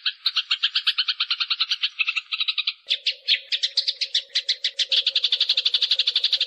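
Eurasian tree sparrows fighting: a fast, unbroken chatter of chirps, about ten a second. About three seconds in, a faint steady low hum joins under the chattering.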